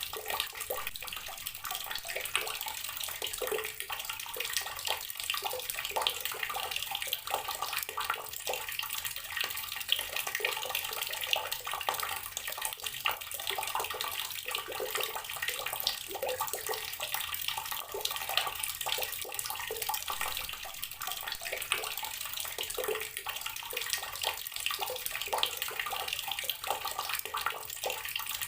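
Water running steadily from an outdoor tap and splashing, a continuous rushing patter with many small splashes.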